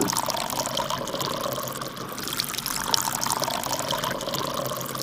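Water pouring in a steady, continuous trickle and splash.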